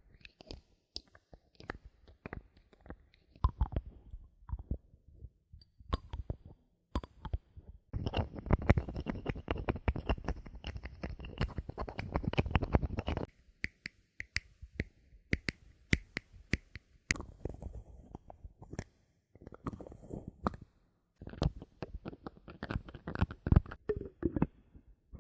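Bottle caps being handled: scattered sharp taps and clicks, and a dense stretch of rapid rattling clicks lasting about five seconds about a third of the way in.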